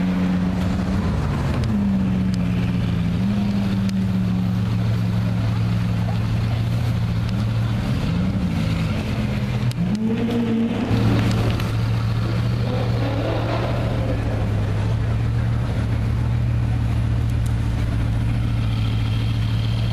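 Bugatti Veyron 16.4's quad-turbocharged W16 engine running at low revs as the car creeps through slow traffic: a steady low drone, with a few brief rises in revs about eight to ten seconds in.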